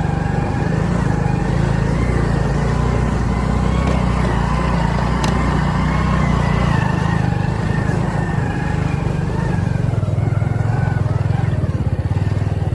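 Vehicle engine running steadily with a low throb; its deepest rumble weakens about halfway through.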